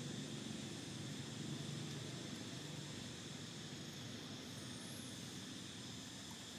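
Steady outdoor background: insects droning at an even high pitch over a faint low rumble.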